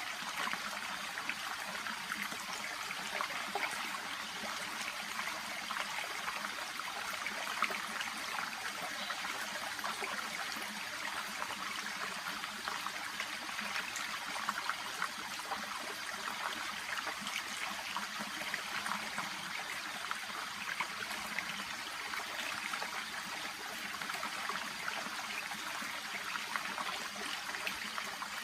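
Shallow brook babbling steadily, water trickling and splashing over stones and through water plants.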